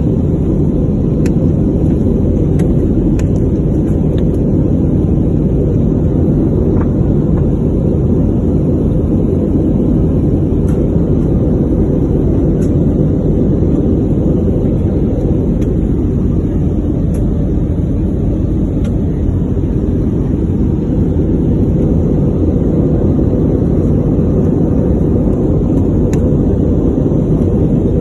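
Steady roar of an airliner's engines and airflow in cruise, heard inside the passenger cabin: a deep, even rumble with no change in pitch.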